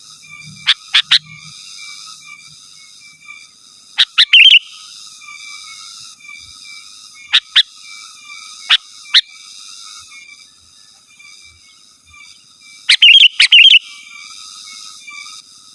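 Sooty-headed bulbul giving loud, sharp, very short calls in clusters of two to four, spaced a few seconds apart, over a steady faint chirring in the background.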